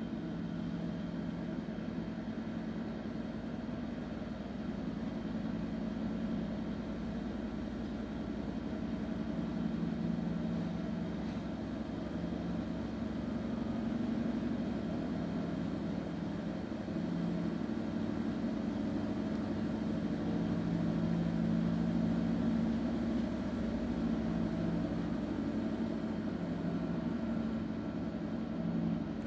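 Washing machine running: a steady motor hum with a few held tones that swells and eases slightly.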